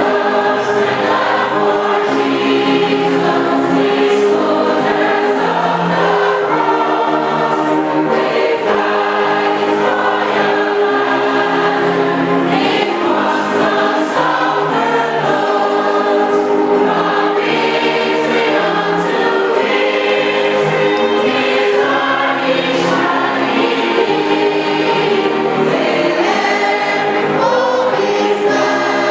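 A choir singing a gospel hymn with musical accompaniment, continuous and steady in loudness.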